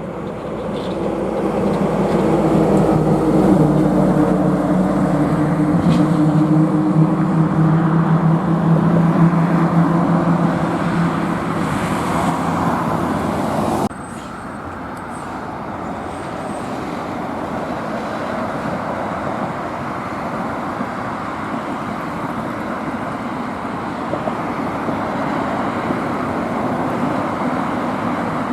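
A road truck passing close with its engine running, a steady engine note over road noise. About halfway through it cuts off abruptly, and steady road traffic noise follows.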